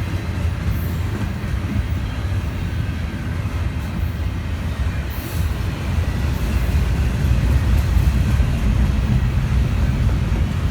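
A train rolling past with a steady low rumble that grows a little louder about halfway through.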